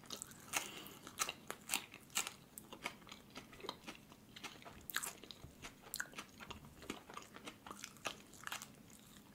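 Close-miked chewing of fresh parsley leaves: quiet, irregular crisp crunches and small mouth clicks.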